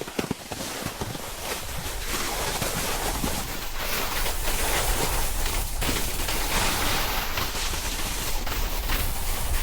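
Snowboard sliding over snow, with wind rushing on the camera's microphone as speed picks up. It builds over the first few seconds into a steady rush.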